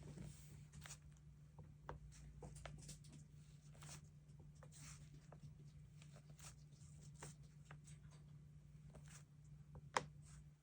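Quiet desk sounds of planner and stationery work: paper rustles, soft pen-on-paper scratches and light taps, with one sharper click near the end, over a faint steady hum.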